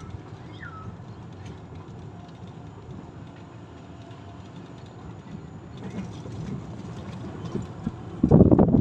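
Golf cart driving along, a steady low rumble of motor and road noise, with two short whistled bird calls at the very start and a louder, rough burst of rumbling about eight seconds in.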